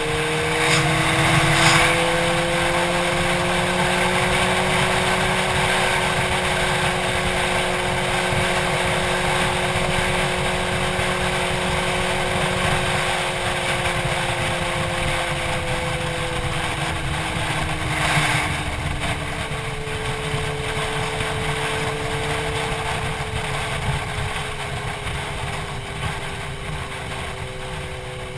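Motorcycle engine running while cruising, heard from a helmet-mounted camera with wind rushing over the microphone. The engine note climbs slightly at the start, holds steady, then eases down about two-thirds through, with brief louder whooshes of wind about a second in and again later.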